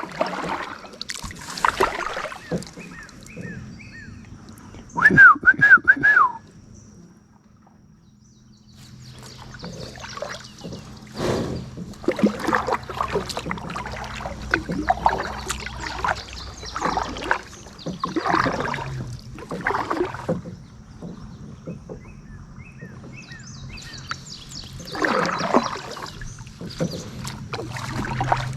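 Kayak paddles dipping and pulling through lake water in repeated irregular strokes. A short, loud wavering whistle comes about five seconds in, and a few faint chirps can be heard.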